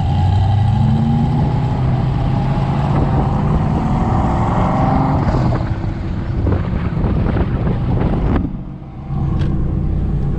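Hot rod engine running while driving, its pitch climbing steadily as it accelerates for a few seconds, then dropping off about five seconds in as it eases off.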